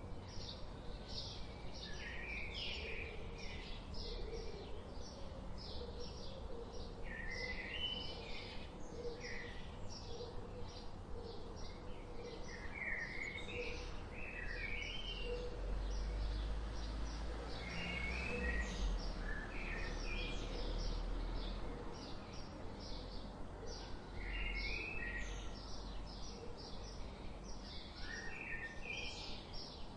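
Birds chirping and singing: a steady run of quick, high chirps throughout, with short warbling phrases now and then. A low rumble swells in the middle and fades again.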